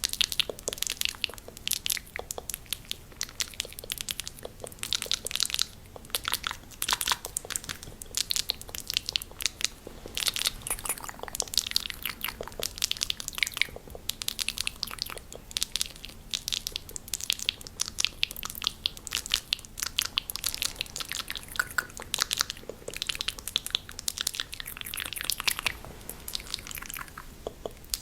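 Fast, aggressive ASMR mouth sounds close to the microphone: a dense, rapid run of tongue and lip clicks and smacks with almost no pause.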